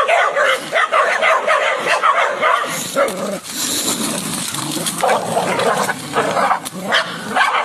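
Dog barking and yipping rapidly, about four short yelps a second. A rougher, hissing stretch comes in the middle, then more short yelps.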